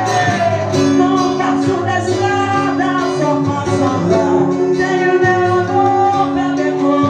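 Live Latin/Brazilian-style music from a small trio: a melody voice sliding between held notes over bass and steady percussion.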